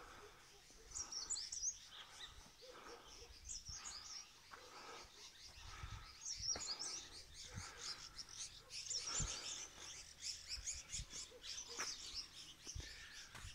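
Small birds chirping and twittering in quick, high chirps that come in clusters, fairly faint.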